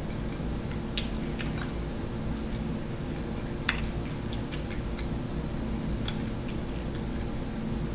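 A person chewing vegan chicken bites, with a few sharp mouth clicks or smacks, the loudest about three and a half seconds in, over a steady low hum.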